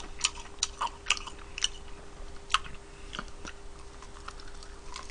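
A person chewing and biting crispy fried Korean native chicken close to the microphone, with a scatter of small crunchy clicks, most of them in the first half.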